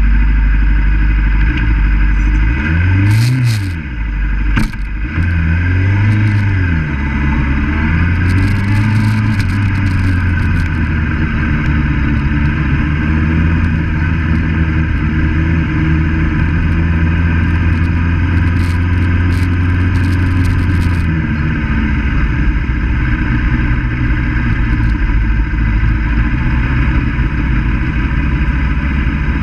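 600RR sport motorcycle's engine running at low revs while the bike rolls slowly. The revs rise and fall a few times in the first seven seconds, then hold a steady note. About 21 seconds in, that note gives way to a rougher, lower sound.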